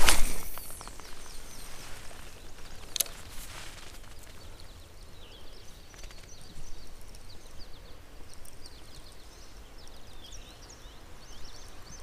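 Small birds chirping in short, falling high notes over quiet outdoor background noise. A sharp click comes at the start and another about three seconds in.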